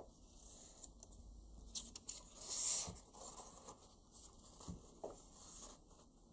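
Sheet of paper rustling and crinkling as it is handled and folded by hand, with small taps and a louder swish of paper about two and a half seconds in.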